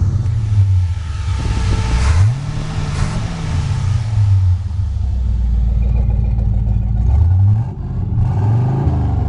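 Chevrolet 409 V8 being revved from idle a few times, its pitch climbing and falling back: one long rev a little under two seconds in, then shorter blips near the end.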